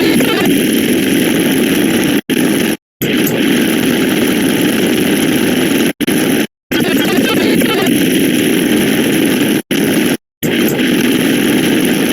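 A loud, dense wash of many overlapping sound effects piled on one another, forming a steady noisy drone. It drops out to silence for a split second twice in a row, about every three to four seconds.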